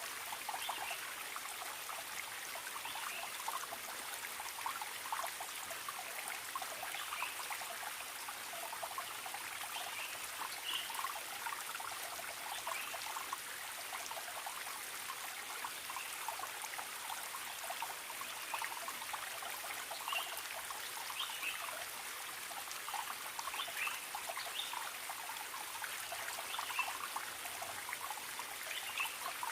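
Small forest stream trickling and burbling over rocks, steady throughout.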